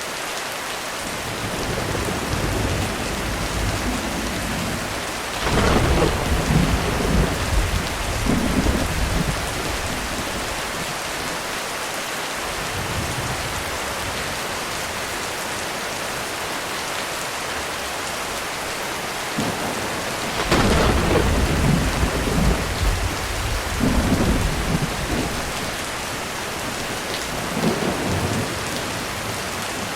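Heavy rain falling steadily on a roof with a continuous hiss, while thunder rolls through twice, a loud rumble about a fifth of the way in and another about two-thirds in, each lasting several seconds, with a shorter rumble near the end.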